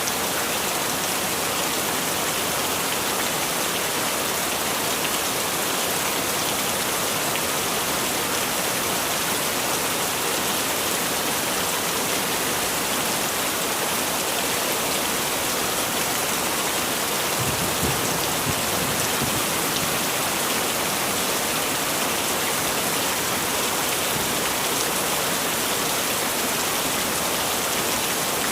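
Heavy rain falling steadily, a dense even hiss of drops on surfaces. About two-thirds of the way in there is a brief low rumble lasting a couple of seconds.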